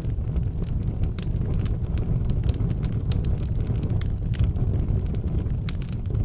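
Fire burning in an outdoor fireplace: a steady low rumble with scattered sharp crackles and pops.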